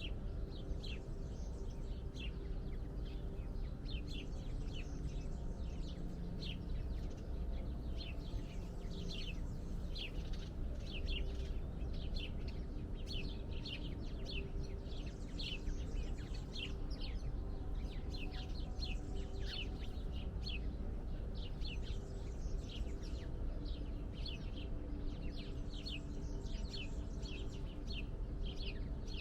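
Small birds chirping without pause, a quick run of short, high, sweeping chirps several times a second, over a steady low background rumble.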